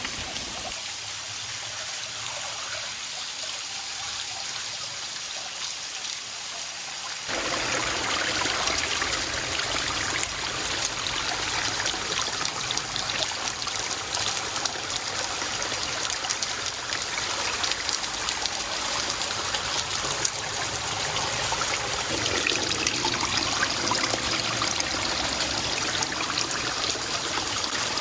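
Water of a low-flow waterfall pouring off a rock ledge and splashing onto the rocks below, a steady rushing that steps up louder about seven seconds in.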